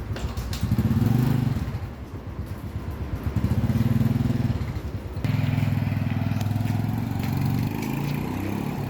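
A motor running with a low pitched hum that swells louder three times, as if taking load in spells, with a few light clicks.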